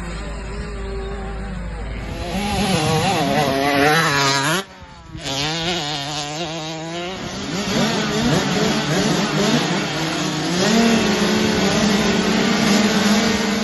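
Mini motocross bike engine revving, its pitch rising and falling as the throttle is worked. The sound drops out briefly about five seconds in, then picks up again.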